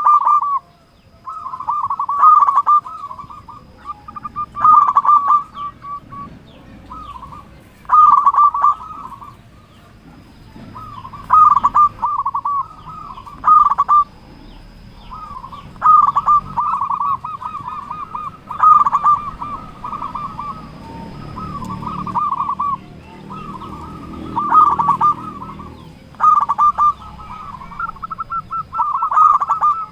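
Zebra dove (perkutut) cooing over and over, each call a quick rolling run of notes about a second long, repeated every two to three seconds.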